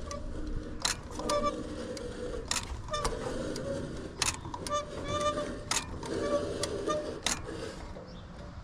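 Caulking gun trigger clicking about eight times at uneven intervals, with short pitched squeaks between the clicks, as the concrete forms are sealed.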